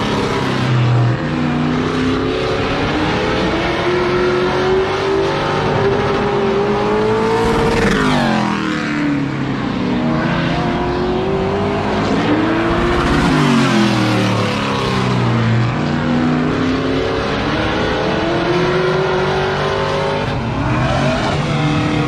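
Race truck engine at full racing speed on a short oval, its pitch climbing as it accelerates and dropping sharply about every five to six seconds as it lifts for the turns.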